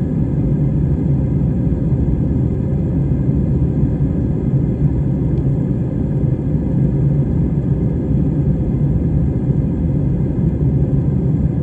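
Jet airliner in flight, heard from inside the cabin: the engines and airflow make a loud, steady low rumble with a faint steady hum above it.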